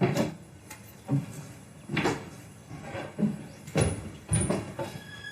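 A series of about six dull knocks and thuds, roughly a second apart, like someone moving about and handling a door.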